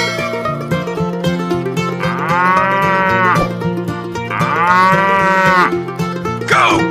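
Two cow moos, each lasting over a second with a pitch that rises and then falls, sounding over background music.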